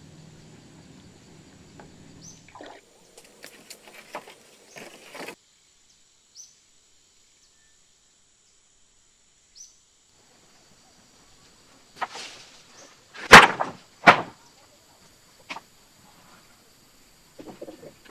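Short bird chirps every few seconds, over scattered rustles and clicks. Later come two loud knocks about a second apart, the loudest sounds here, with a few smaller clicks around them.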